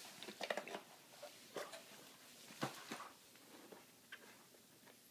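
Faint rustling with scattered light clicks and taps from small objects being handled; the sharpest click comes about halfway through.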